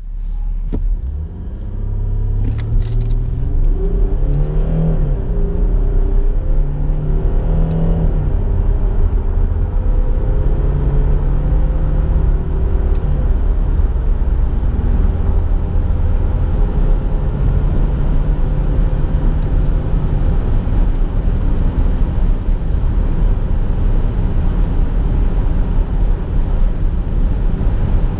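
Inside the cabin of an Audi A6 3.0 TDI quattro accelerating hard towards 200 km/h: the turbocharged 3.0-litre V6 diesel rises in pitch through each gear and drops back at several upshifts of the automatic gearbox, over a steady rumble of road and wind noise.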